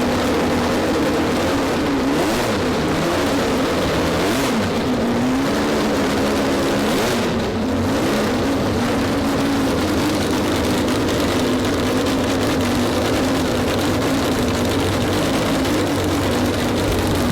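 A 12-rotor Wankel rotary engine running on its own just after firing up. Its pitch wavers up and down for the first several seconds, then settles into a steady, loud run.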